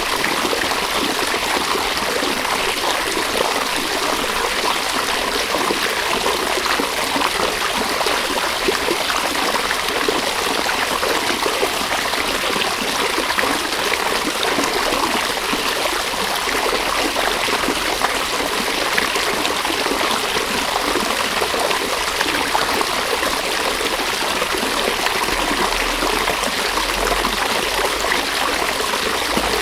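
River water running steadily over stones, a continuous rushing and babbling.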